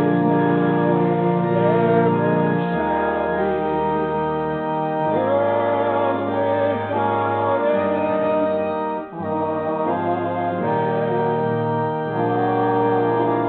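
Organ playing sustained chords that shift every second or two, with a brief break about nine seconds in.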